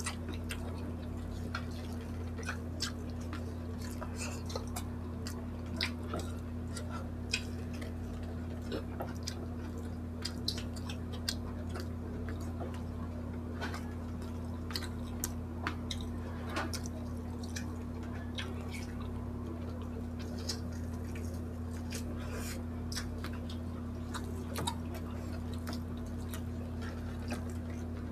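Close-up chewing of grilled pork and rice: many scattered wet mouth clicks and smacks over a steady low hum.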